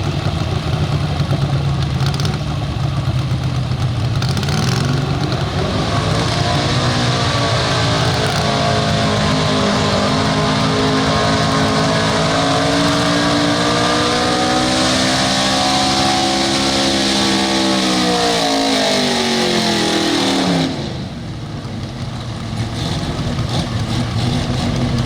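Truck-pulling pickup's engine revving hard under load during a sled pull. Its pitch climbs about four seconds in, holds high with slight wavering, then falls and drops away about twenty seconds in as the throttle comes off, over a steady low rumble.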